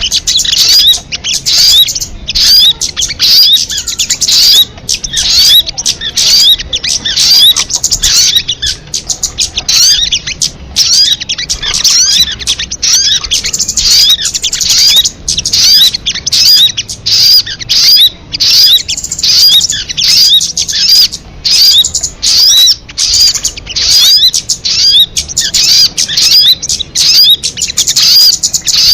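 Sogon bird song: an unbroken stream of fast, high chirps and short rising-and-falling whistled notes, repeated several times a second.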